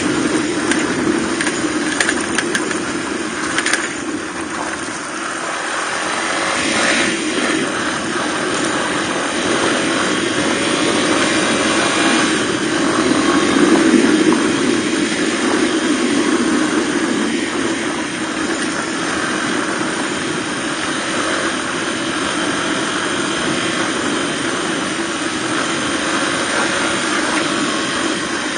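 Suzuki DR250R's single-cylinder four-stroke engine running steadily, with a continuous rushing noise over it. Its level swells slightly about halfway through.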